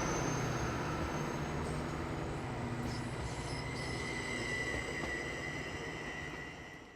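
Train running along the track with a steady low rumble. A thin, high wheel squeal joins about two and a half seconds in, and the whole sound fades out near the end.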